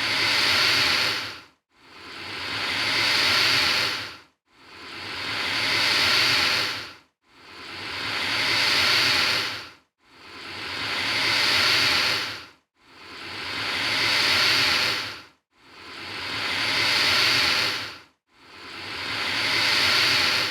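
Alligator hissing: a long, breathy hiss that swells and then cuts off, repeated about every three seconds with short silent gaps, about seven times. The hisses are identical, a single hiss looped.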